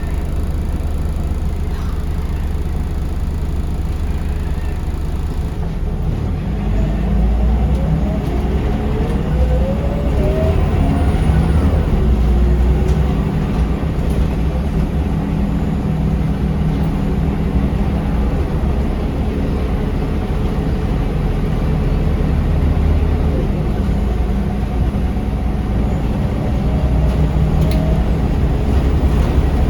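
Scania L94UB city bus running, heard from on board. About six seconds in the engine gets louder and its whine rises in pitch as the bus accelerates, then it settles into a steady cruise, with another rise in pitch near the end.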